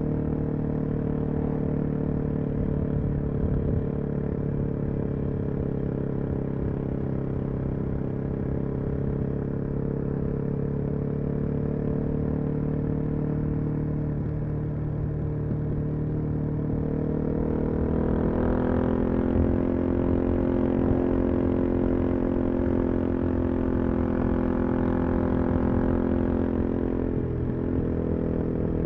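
Suzuki DR-Z400SM single-cylinder four-stroke engine with a full Yoshimura exhaust, heard from the rider's position while riding. The note drifts slowly lower at steady throttle, then rises and gets louder about two-thirds of the way in as the throttle opens. It dips briefly near the end.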